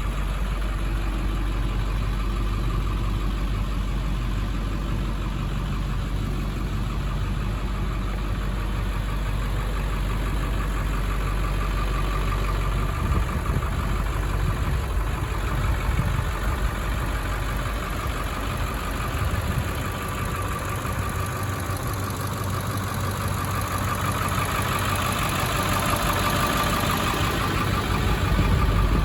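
1997 International 4700 truck's engine running at idle. Its sound changes about halfway through and grows louder and brighter near the end.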